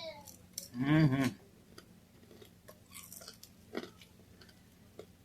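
Close-up chewing of crunchy fish: faint, scattered crunches and mouth clicks, after a short vocal sound about a second in.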